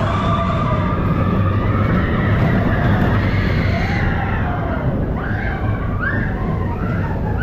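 Expedition Everest roller coaster train rumbling along its track, with riders screaming in rising and falling cries, several short rising screams in the second half.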